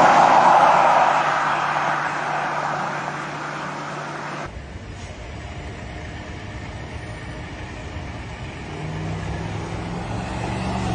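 Road vehicle noise: a loud rushing sound fades over the first few seconds and cuts off abruptly about four and a half seconds in. A quieter, low engine hum follows and swells again near the end.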